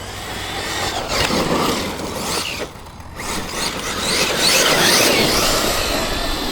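Electric RC monster truck driving hard, its brushless motor and drivetrain whining up and down in pitch with the throttle over a wash of tyre and ground noise. There is a short lull just before three seconds in, and it is loudest around five seconds in.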